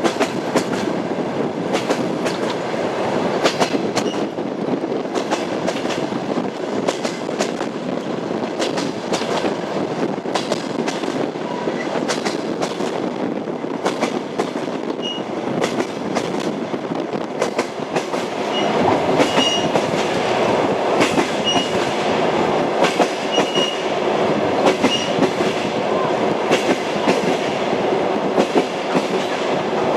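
Railway carriage wheels clattering over rail joints under a steady rumble of the moving train. From about halfway on, short high squeaks recur and the rumble grows louder.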